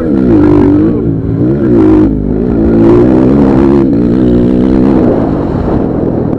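Motocross dirt bike engines revving hard, the pitch rising and falling over and over with throttle and gear changes, more than one bike at once.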